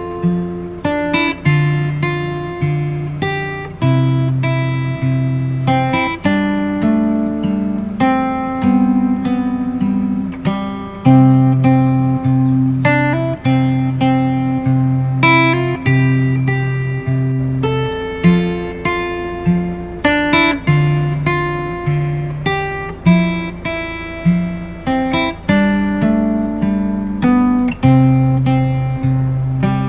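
Background music: acoustic guitar playing a steady, plucked and strummed tune.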